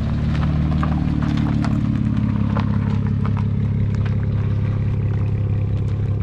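Mercedes E-Class stretched wagon limousine with a straight-through exhaust, its engine running steadily at low revs as the car pulls away slowly, tyres crunching on gravel.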